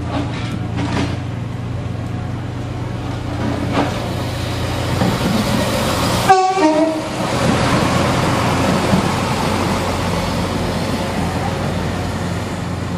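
TransPennine Express diesel multiple unit running past at close range, its engine droning steadily under the rumble of the carriages. A brief horn sounds about halfway through.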